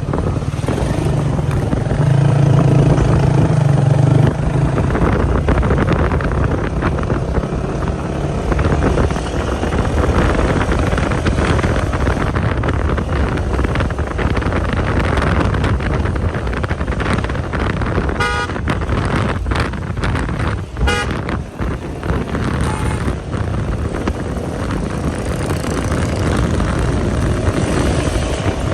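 Road vehicle engines running steadily, with a couple of short horn honks about two-thirds of the way through.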